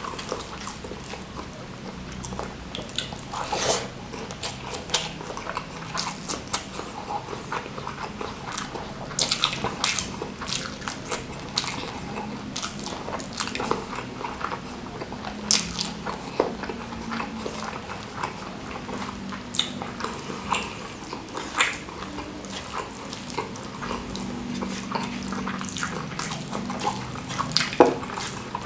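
Close-miked mouth sounds of a person eating rice with salted-squid sambal and petai: chewing and smacking with many irregular small wet clicks.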